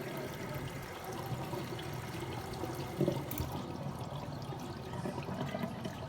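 Water running into a kitchen sink and draining through the freshly cleared and reassembled drain trap, with a short louder splash about three seconds in.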